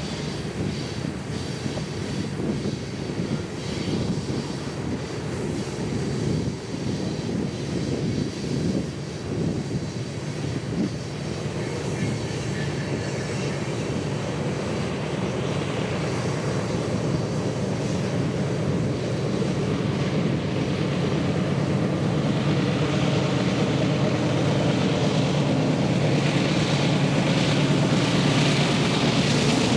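Diesel locomotives of a Union Pacific freight train running with a low, continuous engine drone. The drone grows steadily louder as the train draws closer.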